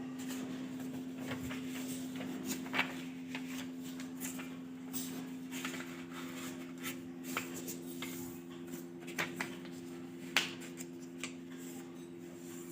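A sheet of paper being handled, folded and creased by hand: scattered soft rustles and short crackles of paper, over a steady low hum.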